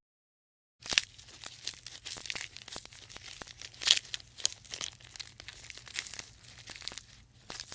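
Irregular crackling and rustling made of many small clicks, with a few sharper louder ones, starting about a second in over a faint low hum.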